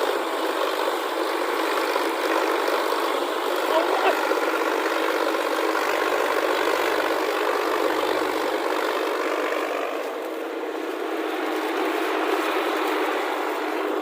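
Heavy diesel engine running steadily with a constant drone, easing off a little near the end.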